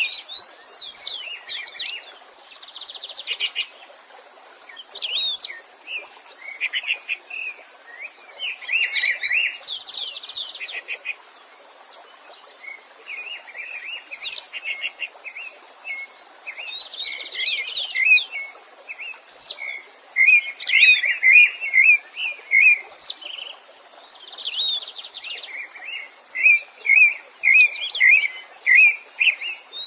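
Several songbirds singing at once: a busy mix of whistles, sharp rising and falling calls and fast trills, over a faint steady stream hiss.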